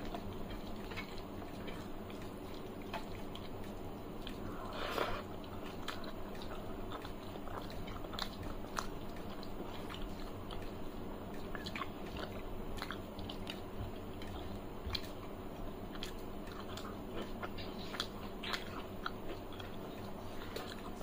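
Close-miked mouth sounds of a person eating rice mixed with pea curry by hand: chewing with many small wet clicks and smacks, and a louder noisy rustle about five seconds in.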